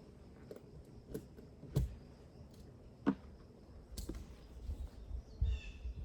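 Outdoor nature ambience: scattered soft clicks and taps, a low wind rumble on the microphone from about the middle on, and a short bird call of two chirps near the end.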